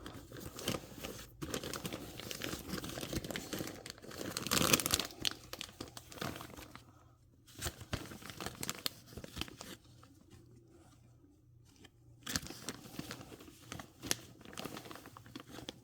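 Plastic Ziploc bag crinkling and rustling as hands rummage through doll clothes inside it, coming in fits and starts with quieter pauses around the middle.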